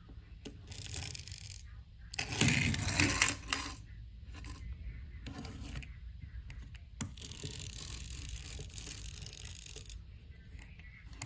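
Clattering and clicking of small hard objects, in several bursts. The loudest clatter comes about two to four seconds in, and a steadier hissing rustle follows later.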